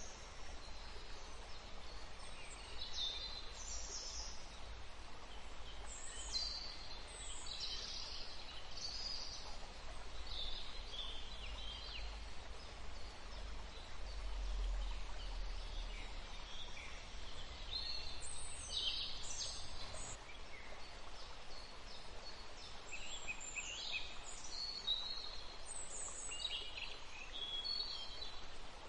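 Birds calling: many short, high chirping calls come and go throughout, over a steady hiss and a low rumble.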